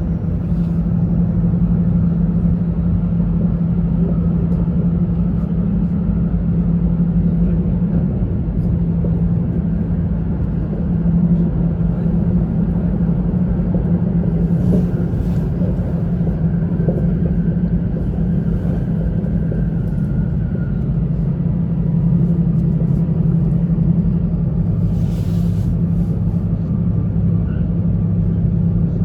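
Running noise of an E2 series Shinkansen heard inside the passenger cabin: a steady low rumble with a droning hum, joined by a second, lower hum about three-quarters of the way through.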